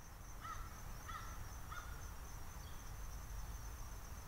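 Faint woodland ambience: a bird gives three short calls about half a second apart in the first two seconds, over a steady high insect drone.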